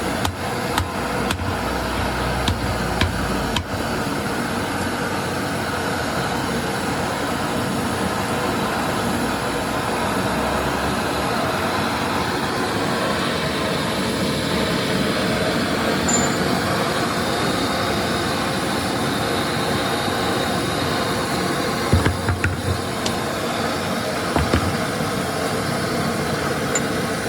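Steady mechanical running noise, like an engine or machine, with a few short knocks near the end.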